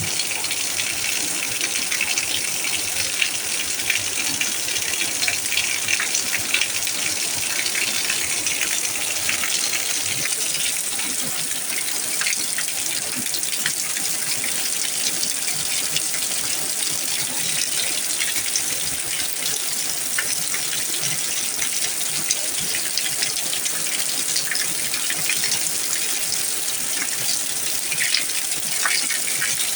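Heavy tropical downpour: steady rain with water gushing and splashing, dense and unchanging throughout.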